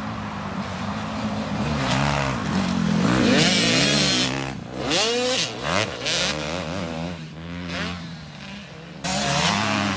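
Dirt bike engines on a motocross track revving up and down, their pitch rising and falling repeatedly with more than one bike heard at once. The sound gets suddenly louder near the end.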